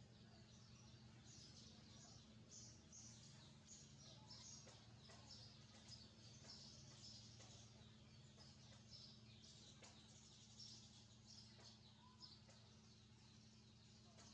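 Small birds chirping faintly, with many short high notes repeated several times a second, over a steady low hum.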